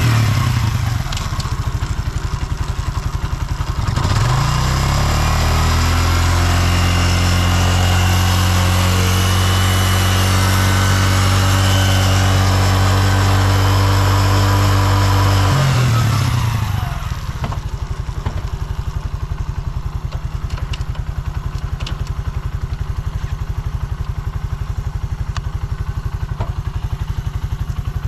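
Suzuki GN125H's 124 cc air-cooled single-cylinder four-stroke engine settling to idle, then revved up about four seconds in and held steady at raised revs for about eleven seconds before dropping back to a steady idle. It runs with no abnormal noise, as the seller states.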